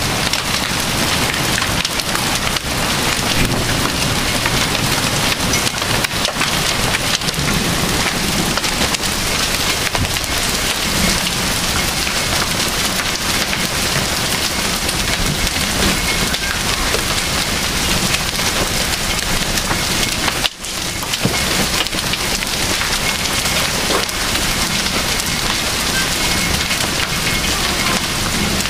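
Hail and heavy rain pelting down: a dense, continuous clatter of hailstones striking hard surfaces over the hiss of rain, with a brief dip about twenty seconds in.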